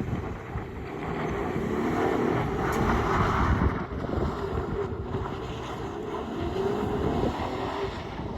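A vehicle's engine revving up and down as it slides around in the snow, under heavy wind noise on the microphone.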